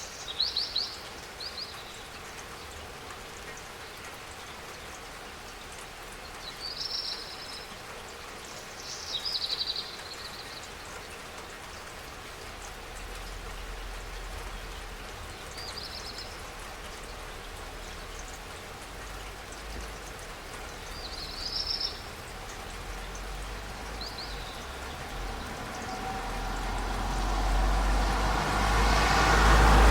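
Steady spring rain falling, with a bird giving short high chirps now and then. Near the end a vehicle approaches, its noise swelling until it drowns the rain.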